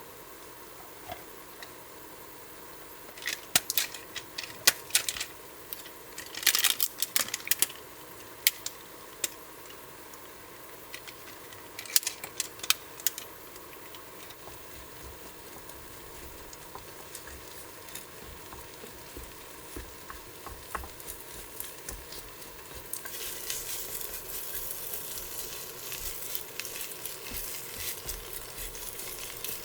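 Food frying in a pan: a steady sizzle with scattered crackles and pops, turning louder and denser near the end.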